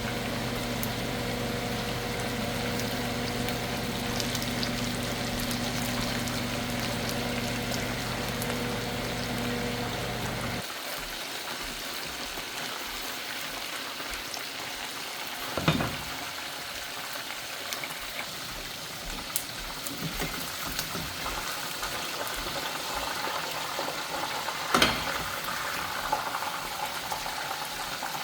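Oil sizzling steadily as food fries, with a steady electrical hum from a running kitchen appliance that cuts off about ten seconds in. Two brief knocks follow later.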